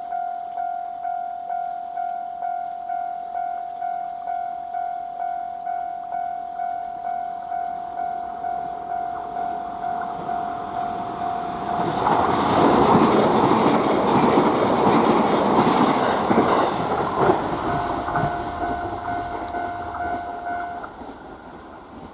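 Japanese level-crossing alarm bell ringing steadily, about one and a half strikes a second. About twelve seconds in, a JR East E655 series electric train passes at high speed with a loud rush of wheel and rail noise lasting about five seconds that drowns the bell. The bell is heard again as the train noise fades, and it stops near the end.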